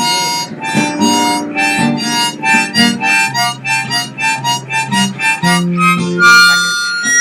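Harmonica playing an instrumental break in a song: a quick run of short notes, several a second, ending on a longer held note near the end, with guitar underneath.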